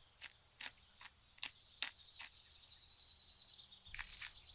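Pepper mill being twisted over the bowl: a run of six sharp grinding clicks, about two and a half a second. It stops a little past halfway, with the clicks starting again near the end.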